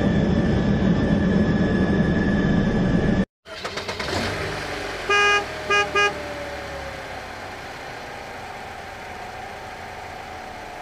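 Toy-vehicle sound effects. A helicopter whir with a thin steady whine runs for about three seconds and cuts off abruptly. About two seconds later a vehicle horn toots three times in quick succession, the first toot the longest, followed by a low engine hum that slowly falls.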